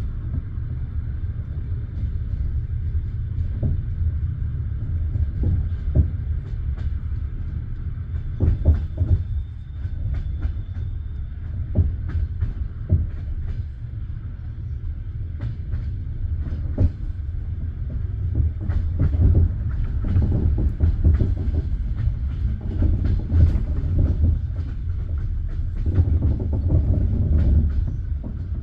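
Passenger train carriage rumbling along the track, with irregular knocks and clacks of its wheels over rail joints.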